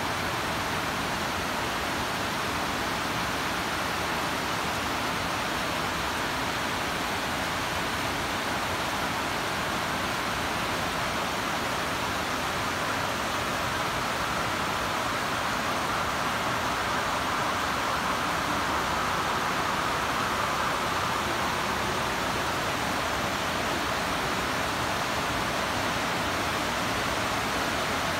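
Rain pouring down steadily, a dense even hiss that grows slightly louder around the middle.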